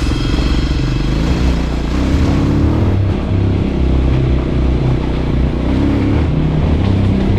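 Voge 300 Rally's single-cylinder engine running as the motorcycle is ridden, the revs rising and falling with the throttle and climbing about two seconds in and again about six seconds in.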